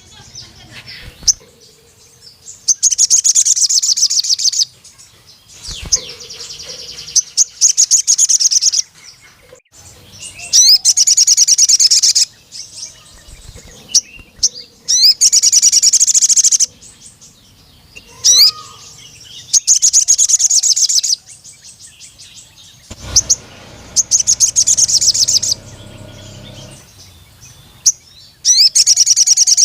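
Male sogon, a sunbird, singing in full voice. Loud, high, rapid trills about two seconds long come every few seconds, with short high chirps and sweeps between them.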